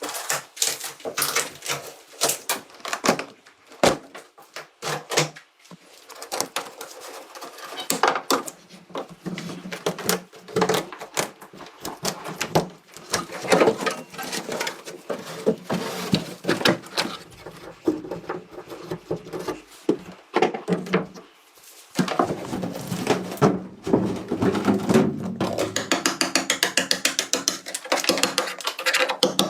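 Hand-tool work on a car: a string of irregular metallic clicks and knocks, ending in a fast, even run of clicks.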